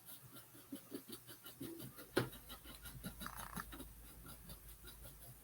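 Paintbrush working paint onto a wooden birdhouse: faint, quick scratchy strokes and small taps, with one sharper click about two seconds in.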